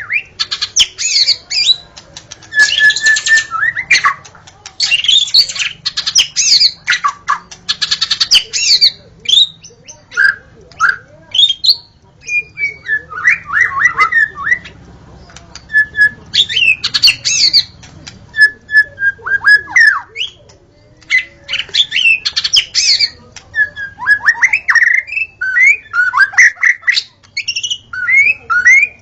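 White-rumped shama (murai batu) singing: a long, varied run of clear whistles, quick trills, pitch glides and harsh notes, with only short pauses between phrases.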